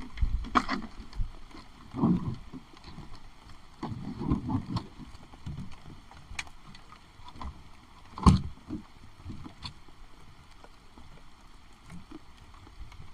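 Irregular bumps, knocks and splashes, with the loudest knocks about two, four and eight seconds in, over a faint hiss of heavy rain.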